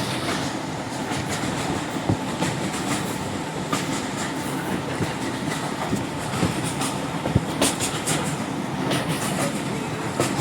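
Train running along the line: a steady rolling rumble of wheels on track, with irregular clicks and knocks from the rails.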